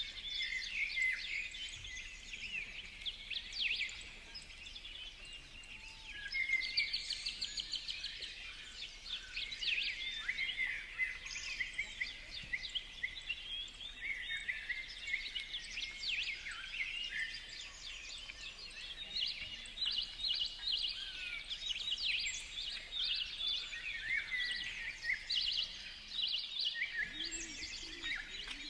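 Many small birds chirping and twittering at once, a continuous overlapping chorus of short high calls.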